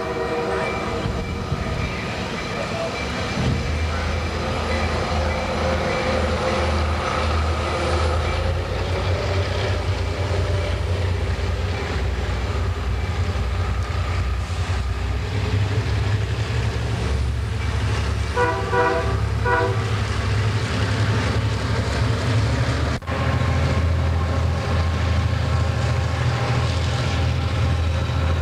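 Diesel locomotives working past with a loud, steady low engine rumble. There are three short horn blasts a little past the middle, and the sound breaks off sharply for an instant about five seconds before the end, then the rumble carries on.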